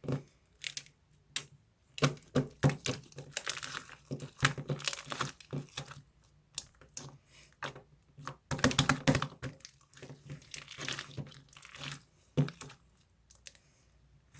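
Irregular clicking and crinkling of objects being handled, in quick uneven runs with short pauses.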